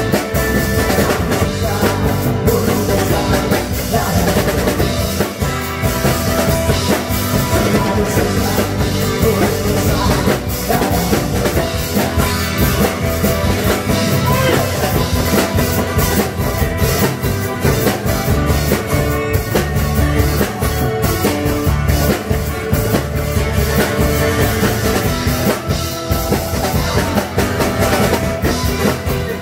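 Live band playing an instrumental rock number, the drum kit beating steadily with snare and bass drum under amplified instruments.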